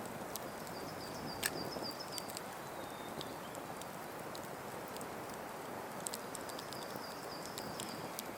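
Campfire crackling, with sharp pops over a steady hiss and one louder pop about one and a half seconds in. A small bird sings a high trilled phrase twice, each lasting about two seconds.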